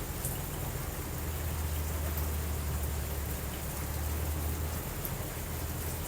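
Steady rain, an even hiss, with a low rumble of distant thunder from about a second in until nearly five seconds in.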